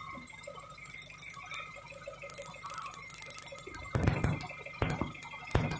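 High-voltage ignition sparks snapping from a cracked distributor cap to a grounded screwdriver as a run of irregular sharp ticks, sparse at first, then louder and closer together from about four seconds in. The sparks are ignition current leaking through the crack in the cap, a cause of hard starting.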